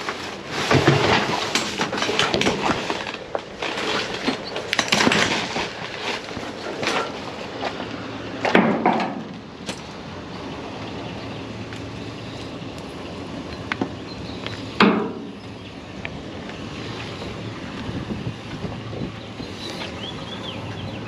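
Discarded junk being handled: irregular clattering, rattling and knocking in the first half, then a single heavy knock about 15 seconds in.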